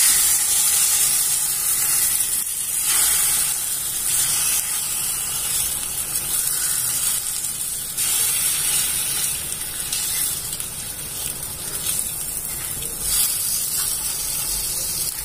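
An egg-dipped thin pancake sizzling steadily in hot oil in a pan.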